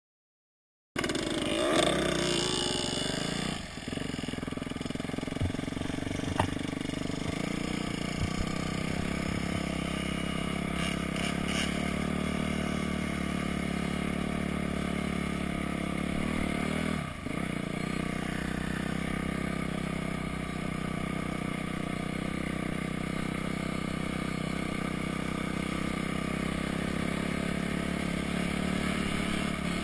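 Honda CRF250X's single-cylinder four-stroke engine running on the throttle as the dirt bike is ridden round a motocross track. The sound cuts in about a second in and holds steady, with two brief dips, one near the start and one about halfway through.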